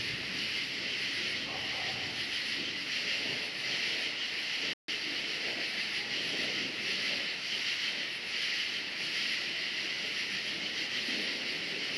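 A chorus of crickets chirping steadily and high-pitched over a low, uneven rumble. The sound cuts out completely for a split second about five seconds in.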